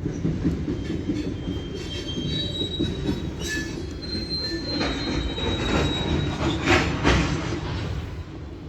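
Freight cars rolling slowly over yard track, their wheels squealing in thin high tones. Several sharp metallic clanks of couplers and slack run through the cars, the loudest two together near the end, over a low rumble.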